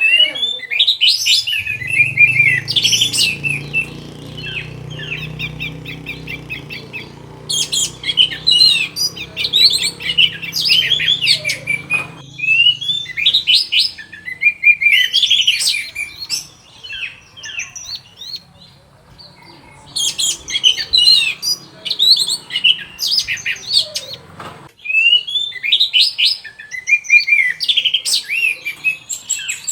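Orange-headed thrush singing: about five bursts of quick, varied whistled phrases a few seconds long, with short pauses between. A low steady hum runs beneath the first half and stops about thirteen seconds in.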